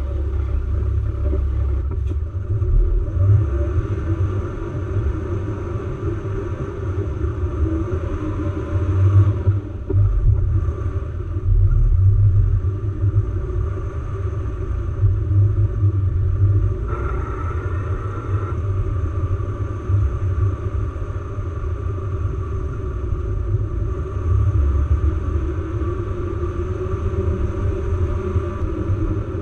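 4x4 vehicle driving off-road, a steady low engine and drivetrain rumble that rises and falls a little without stopping.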